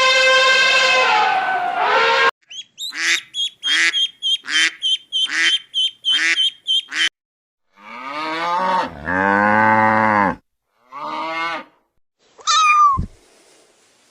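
A string of different animal calls cut one after another: a rooster's crow ends about two seconds in, then a rapid series of about eight short calls, a long lower call, a brief call, and a cat's meow near the end.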